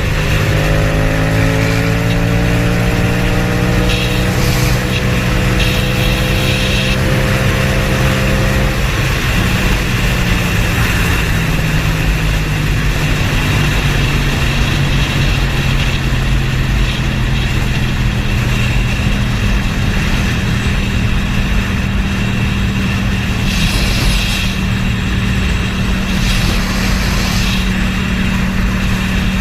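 Motor vehicle engine accelerating, its pitch rising over the first several seconds, then running at a steady speed for the rest, over continuous road and wind noise.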